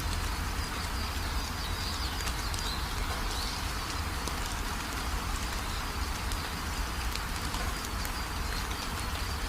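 Steady rain falling, with scattered drops ticking and a low rumble underneath, and faint high bird calls over the top.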